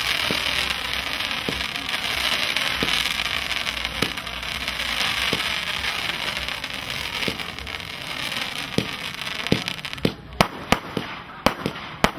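Firework cake firing: a continuous loud crackling hiss with a sharp launch pop about every second. Near the end the hiss gives way to a quick run of sharp cracks.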